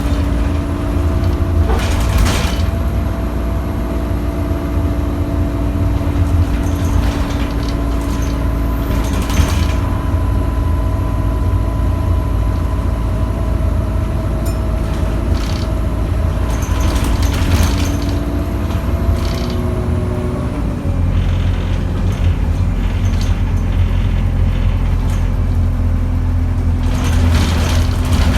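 Alexander Dennis Enviro200 single-deck bus heard from inside while driving: a steady low drivetrain drone with a whining tone that stops about twenty seconds in. A few short noises break in now and then.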